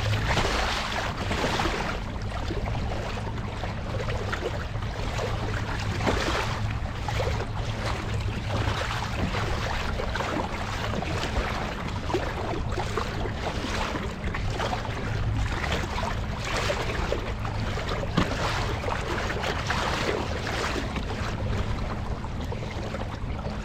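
Water splashing and sloshing around a kayak, in surges every second or two, over a steady rumble of wind on the microphone.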